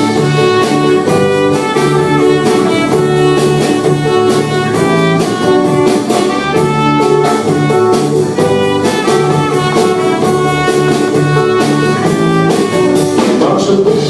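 Live band playing an instrumental break without vocals, with a melodic lead line over a steady beat.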